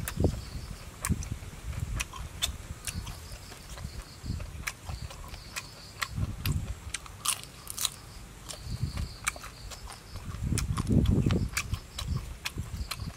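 Close-up chewing of roasted lobster meat, with many sharp, irregular mouth clicks and smacks; the chewing swells loudest near the end.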